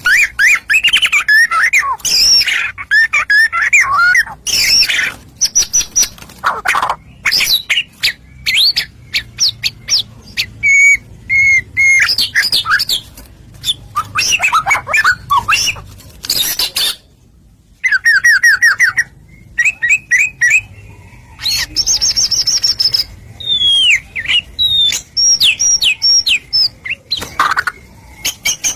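White-rumped shama (murai batu) singing a long, varied song: loud whistled phrases, rapid runs of repeated notes, high trills and scratchy notes, with only brief pauses.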